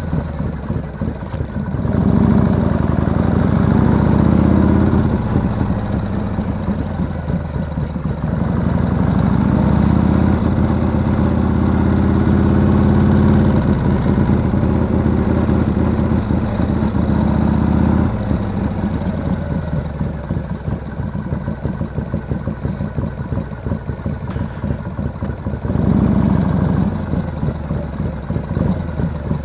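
Motorcycle engine running as the bike is ridden at low speed. It pulls harder from about 2 to 5 s and again from about 9 to 18 s, eases back after that, and gives one short rev about 26 s in before settling lower.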